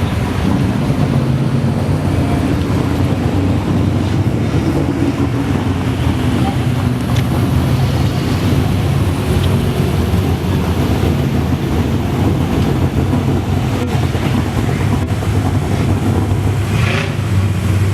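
Steady, loud low drone of a vehicle in motion, with wind rushing over the microphone.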